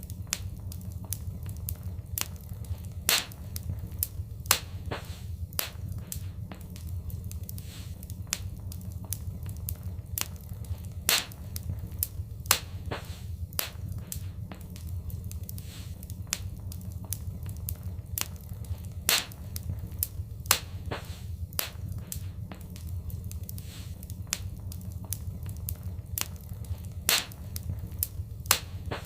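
Fireplace fire crackling over a steady low hum, with constant small crackles and a louder sharp pop every few seconds.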